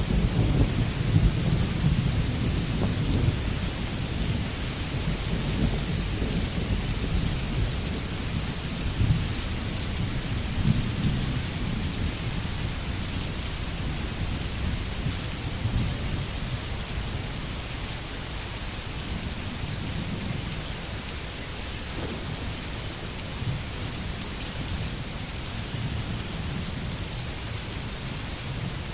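Steady rain hissing, with a low rolling rumble of thunder underneath that is heaviest in the first half and eases off later.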